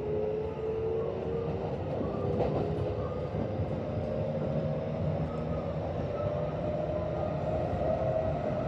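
Kintetsu 1026 series train's VVVF inverter and traction motors, heard from inside the car: several whining tones slowly rising in pitch as the train picks up speed, over steady running rumble. This set's inverter is reported to give off an abnormal, growling, raspy noise mixed into the usual inverter sound, a sign of a deteriorating inverter.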